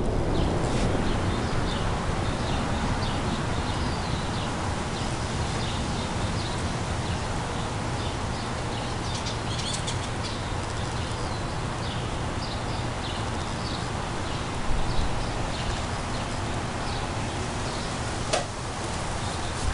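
Steady low rumble and wind noise in the wake of a thunderclap from a dry thunderstorm, slowly fading, with scattered short high chirps through it.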